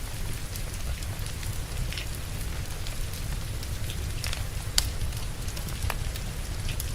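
Log fire crackling, with scattered sharp pops, the loudest just before five seconds in, over a steady hiss of rain and a low rumble.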